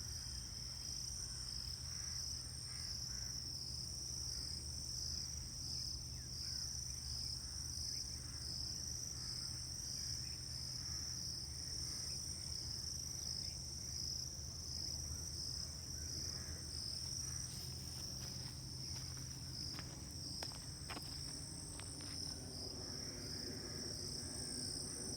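A steady chorus of calling insects: a high, evenly pulsing trill with a fainter, higher band above it, over a low steady hum.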